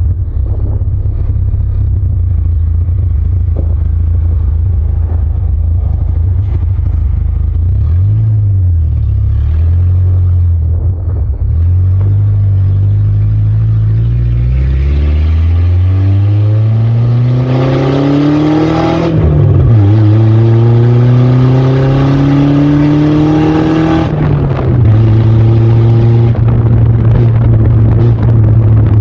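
Ford Ranger pickup with an open exhaust of headers and downpipe only, driving: a low rumble at first, then the engine note climbs as it accelerates, drops twice as it shifts up, and settles into a steady cruise near the end.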